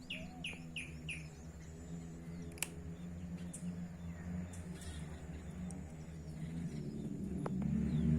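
A bird gives four quick falling chirps in the first second or so, over a steady low rumble and a thin, high, steady whine; the rumble grows louder near the end.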